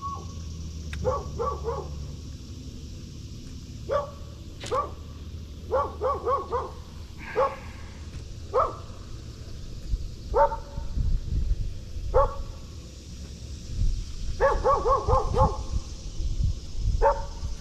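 A dog barking, single barks and quick runs of three to five, over a low rumble of wind on the microphone.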